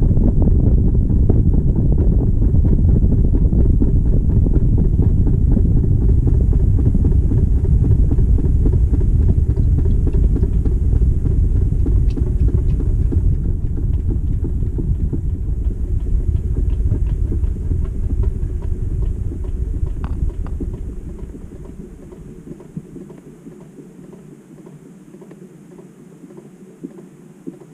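Low rumble inside the drum of a GE GTW220ACKWW top-loading washer during its final high-speed spin. About three-quarters of the way through, the rumble fades over a couple of seconds as the spin winds down, leaving a much quieter low hum.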